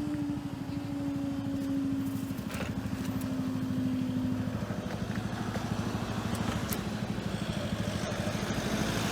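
LNER Azuma bi-mode train passing, running on its underfloor diesel engines. It gives a steady drone over a rapid low pulsing, and a held tone that falls slightly in pitch and fades after about five seconds.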